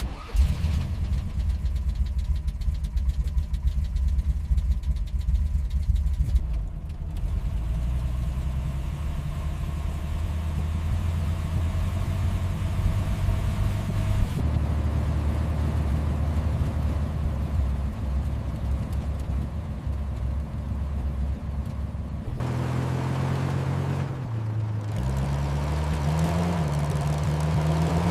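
An old car's engine running steadily at a low pitch, its note shifting a couple of times and wavering up and down in pitch over the last few seconds.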